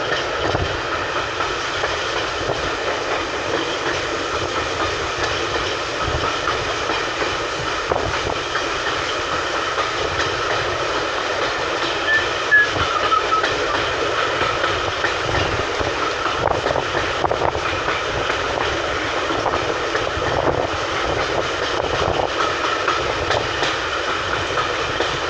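Steady running noise of a railway coach in motion, heard on board, with its wheels rumbling on the track and knocking over rail joints in a loose three-then-two rhythm.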